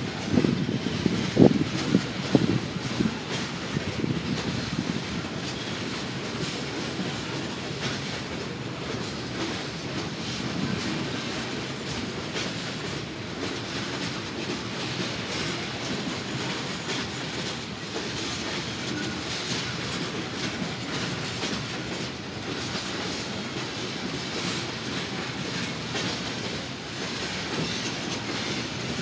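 Norfolk Southern freight cars rolling past with steady wheel clatter over the rails. A few louder low knocks come in the first three seconds, then the clatter runs on evenly.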